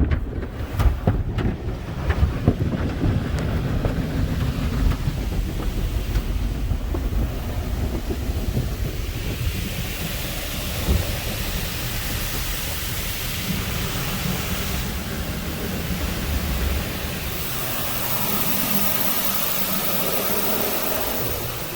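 Water spraying and drumming on the car's body and glass in a tunnel car wash, heard from inside the cabin. A heavy low rumble with knocks fills the first half, then gives way to a steadier high hiss that grows stronger near the end.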